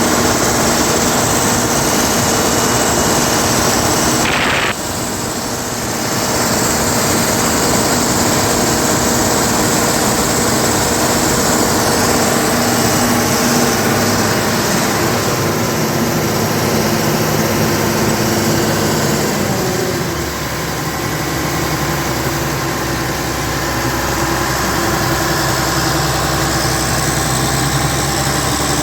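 Cummins diesel engine running on test after a water pump replacement, with a steady note. Its speed drops to a lower steady idle about 20 seconds in.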